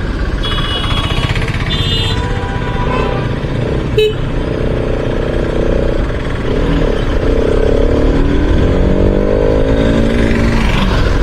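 Bajaj Pulsar RS200's single-cylinder engine running in traffic over steady wind rumble, then rising in pitch from about halfway as the bike accelerates away. Two short horn toots from nearby traffic sound in the first two seconds.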